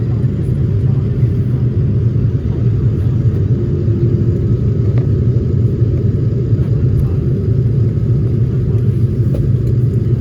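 Steady low rumble of an airliner's engines and rushing air heard inside the passenger cabin during descent toward landing.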